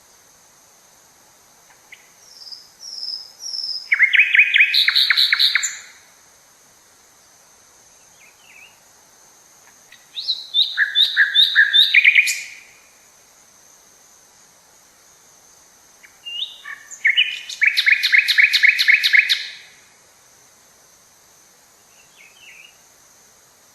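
A songbird singing three phrases, each a quick run of repeated chirping notes lasting two to three seconds, with a few short faint calls between them. A thin steady high-pitched tone runs underneath.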